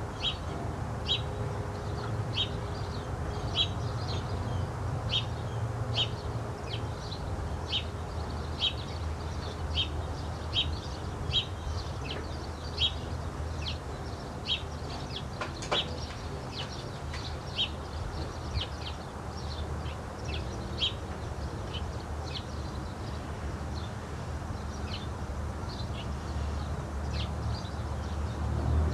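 A bird chirping, short single notes repeated about once or twice a second, over a steady low background rumble, with one sharp click about halfway through.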